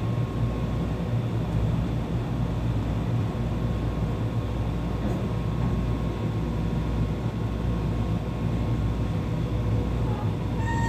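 Meitetsu 1800 series electric train heard from inside its cab, moving slowly with a steady low rumble and hum and a faint steady tone.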